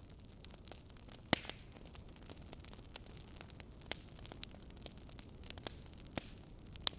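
Wood fire crackling, with irregular sharp pops and snaps, two of them louder, about a second in and at the very end, over a low steady hiss.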